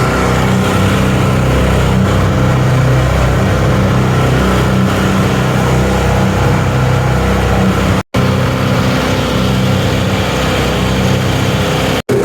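Mixing machine running steadily under its motor, a constant mechanical drone with a low hum, on a test run of a new mixing-blade design. The sound breaks off for an instant twice, about eight seconds in and near the end.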